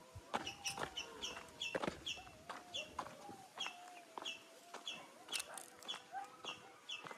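Birds calling outdoors: a short high chirp repeated about twice a second over a lower, wavering drawn-out call, with scattered sharp clicks.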